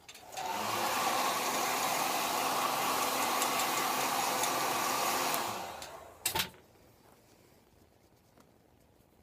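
Handheld electric hot-air blower, used to heat the seat's vinyl, switched on with a click and running steadily for about five seconds, then winding down. A couple of sharp knocks follow about six seconds in.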